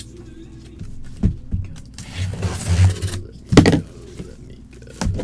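Handling noises of unpacking: a knock about a second in, a rustling scrape lasting about a second, then a loud thump and another knock near the end.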